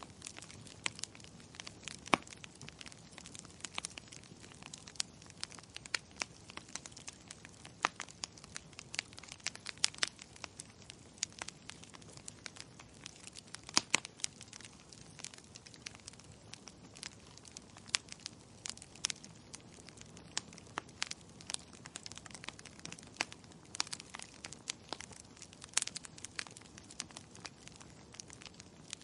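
Wood fire in a fireplace crackling: irregular sharp pops and snaps over a soft low hiss, with a few louder pops scattered through.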